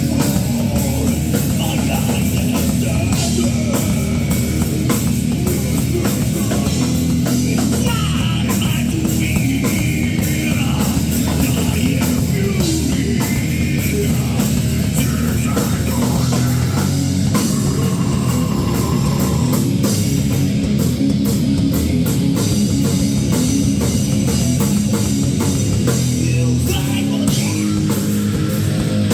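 Rock band playing live: loud distorted guitars over steady pounding drums.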